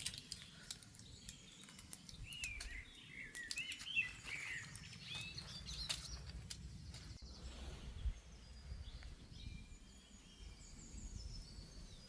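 Birds chirping and calling outdoors: quick rising-and-falling chirps in the first half, then higher, short descending note series near the end, over a low rumble with scattered sharp clicks.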